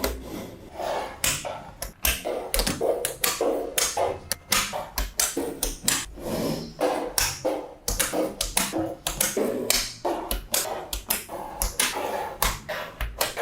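Small magnetic balls clicking and clacking together, several sharp snaps a second with brief rattles between, as they are handled and snapped into place.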